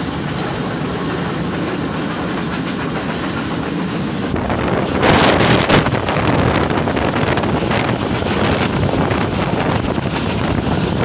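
Passenger train running along the track, heard from beside the carriage: a steady rumble with the wheels clattering over the rails. It grows louder for about a second around five seconds in.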